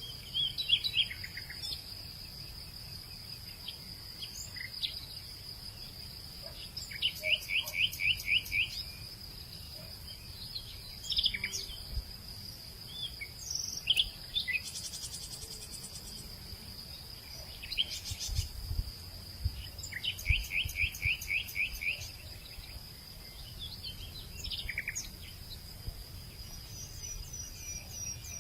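Wild birds chirping and calling over a steady, high, unbroken insect drone. Twice a bird gives a quick run of about ten repeated notes lasting a couple of seconds, about seven seconds in and again about twenty seconds in. A faint low rumble runs underneath.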